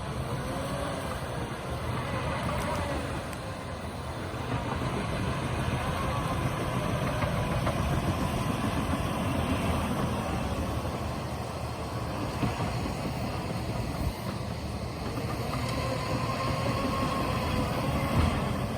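Waterfall, water pouring and rushing in a steady, dense roar.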